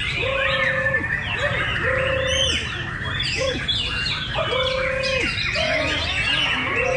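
Several caged songbirds singing and chirping over one another in quick, high, sliding phrases. Under them a low, level note is held about half a second and repeated roughly every second.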